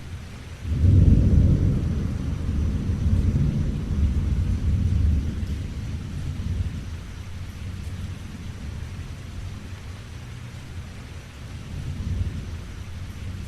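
Thunder: a sudden low rumble about a second in that rolls on for several seconds and fades, with a smaller swell near the end, over steady rain.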